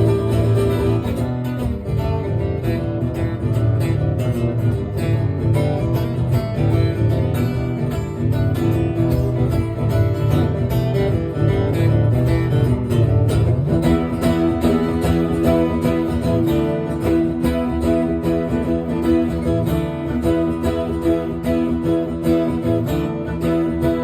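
Acoustic guitar playing an instrumental passage without vocals, with steady, even strumming and picked notes.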